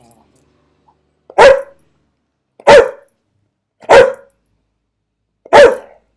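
A dog barking four times, loud single barks about a second or more apart.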